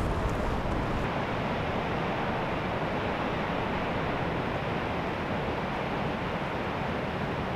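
Steady rushing noise of wind and surf, with wind buffeting the microphone for about the first second.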